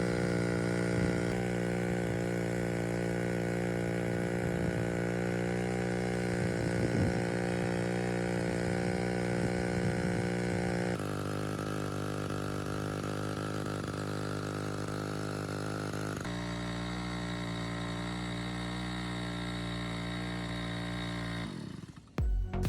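Small two-stroke engine of a restored water pump running at a steady speed, then winding down and stopping near the end, with music coming in just after.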